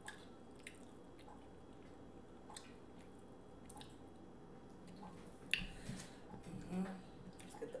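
Close-miked chewing and wet mouth sounds of someone eating seafood boil, with scattered small sticky clicks and a sharper click about five and a half seconds in.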